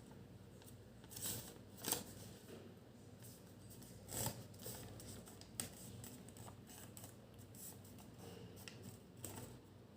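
A sheet of origami paper being folded and creased by hand: short, irregular rustles and swipes, the loudest about two seconds in and just after four seconds in.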